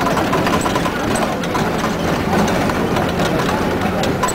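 Diesel engine of a Scania F94-HB bus running steadily.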